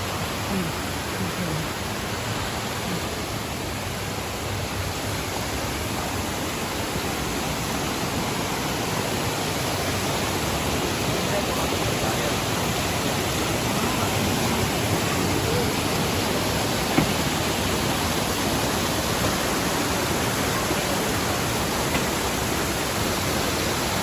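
Steady, even rushing noise that slowly grows a little louder, with one sharp knock about seventeen seconds in.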